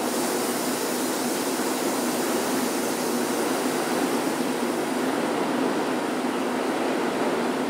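Metro-North Shoreliner push-pull train standing at the platform, giving off a steady hum and rumble. A high hiss starts abruptly right at the beginning and holds steady.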